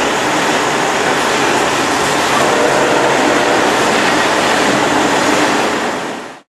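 A train passing close by on the adjacent track: a loud, steady rail noise that cuts off suddenly near the end.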